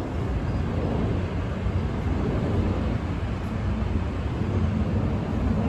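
A train running past with a steady low rumble, a thin high wheel squeal dying away at the very start.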